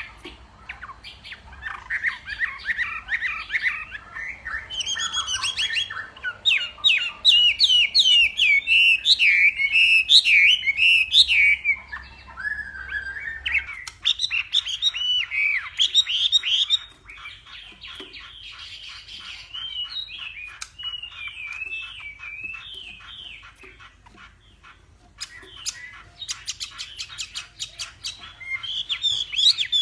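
Chinese hwamei (Garrulax canorus) singing a long, varied song of loud whistled phrases with fast up-and-down slurs. About halfway through it turns softer and more repetitive, and near the end it breaks into a run of rapid sharp notes.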